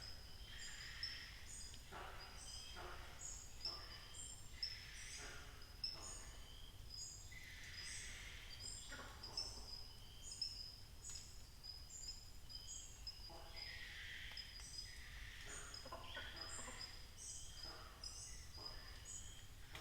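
Forest dawn chorus: many birds and other animals calling at once. A short high note repeats about twice a second over lower, rougher calls that come and go every second or so.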